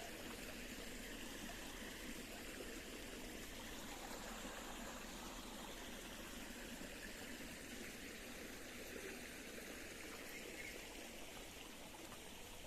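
Faint, steady trickle of a small forest stream.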